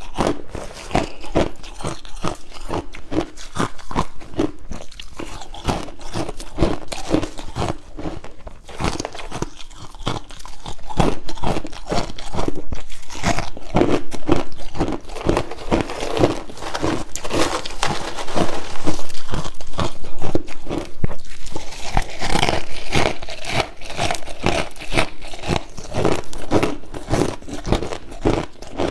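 Crushed ice being bitten and chewed in big bites: a dense, continuous run of crisp cracks and crunches, loudest through the middle stretch.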